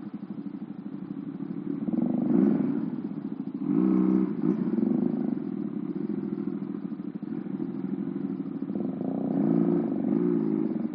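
Motorcycle engine running while riding, from an old Honda Astrea Prima underbone converted to a two-cylinder engine. The engine note swells and rises several times as it accelerates, loudest about two and four seconds in and again near the end.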